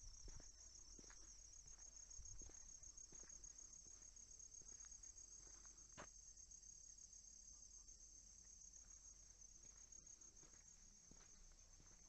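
Crickets chirping, a steady, fast-pulsing high trill, faint, with scattered soft clicks and ticks.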